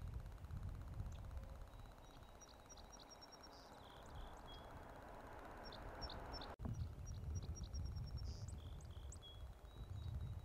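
A small songbird singing a short phrase of quick, high notes, twice, a few seconds apart, with a brief trill near the end, over a low steady rumble.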